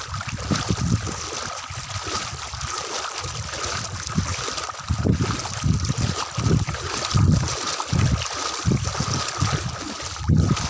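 Footsteps wading through floodwater: steady sloshing and splashing, with a low thud at each step, about one to two steps a second.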